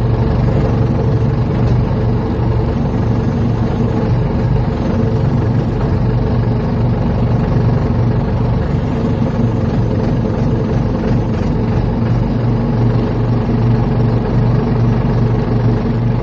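Engine running steadily at a constant speed, a loud, unchanging drone.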